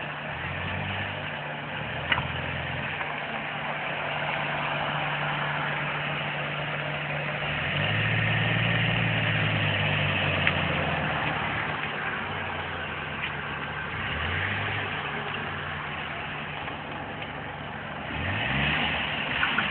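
Car engine running, its note shifting in pitch. It grows louder for a few seconds around the middle and climbs in pitch near the end.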